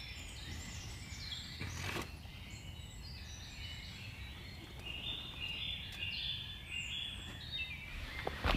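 Woodland birds singing, with many short overlapping chirps and warbles, busiest in the second half, over a steady background hiss.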